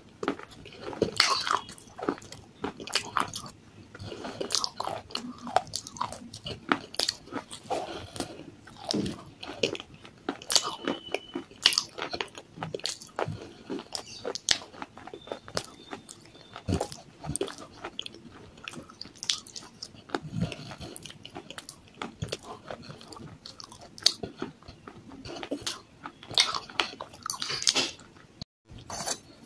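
Close-up chewing and crunching of baked clay pot pieces and white clay paste in the mouth: irregular crisp crunches mixed with wet squishing, with a brief pause near the end.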